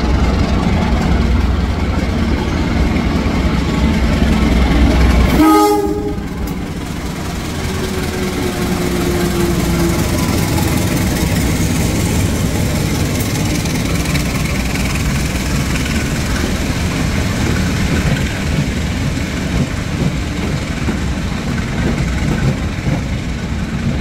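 Diesel locomotive running in with a heavy low engine rumble, then a brief horn sound about five and a half seconds in, as the engine noise suddenly drops away. Passenger coaches then roll steadily past, with wheels running on the rails.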